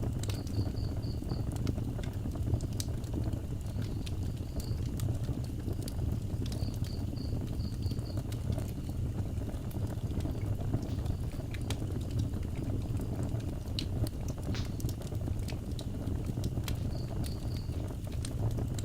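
Wood fire burning with a steady low rumble and scattered crackles and pops. An insect chirps in short runs of quick high pulses a few times, about a second in, around six to eight seconds in, and near the end.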